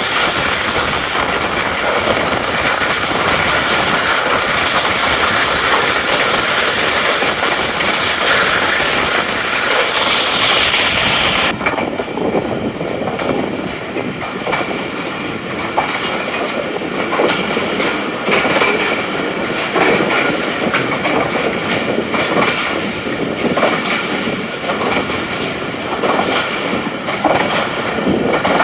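Passenger train running at speed, heard from on board: steady wheel-on-rail rumble with the clickety-clack of rail joints. About a third of the way in the sound suddenly turns duller, losing its high hiss.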